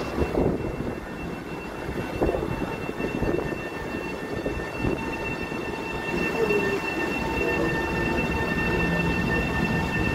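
Long Island Rail Road M7 electric train moving slowly on the tracks: a low rumble with steady high-pitched tones that set in about a second in and hold.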